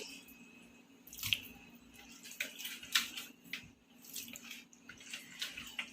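Raw chicken pieces being put into a wet yogurt and garlic-paste marinade in a bowl: faint, irregular wet plops and squelches, with a steady low hum underneath.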